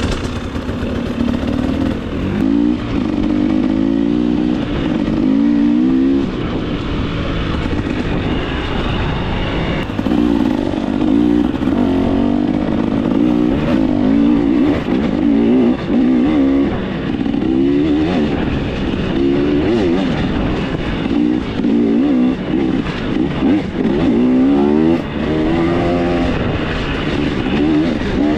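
2024 KTM 300 XC-W single-cylinder two-stroke dirt bike engine being ridden hard, its pitch rising and falling again and again as the throttle is opened and closed, with short dips where it is shut off.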